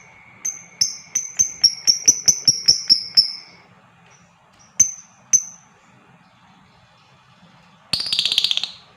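Lovebird calling: a run of sharp, high chirps at about four a second, two more single chirps, then a short, loud, rapid chattering burst near the end.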